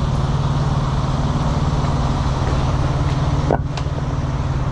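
Heavy diesel truck engine idling steadily, with one short sharp knock about three and a half seconds in.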